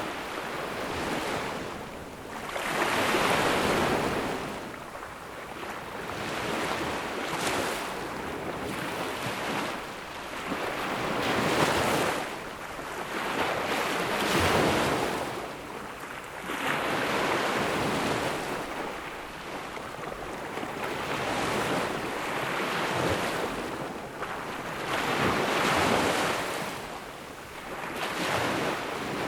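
Ocean waves breaking and washing up on a beach, each surge swelling and fading every few seconds, with a steady rush between them.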